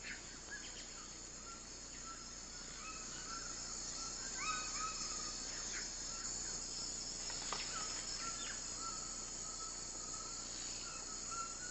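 Rainforest ambience: a steady, high-pitched chorus of insects, with scattered short chirping calls throughout.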